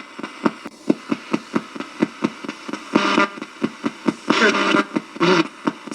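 Spirit box, a radio that sweeps rapidly through stations, scanning: a fast run of clicks about four a second over hiss, with brief snatches of broadcast voices about halfway through and again near the end.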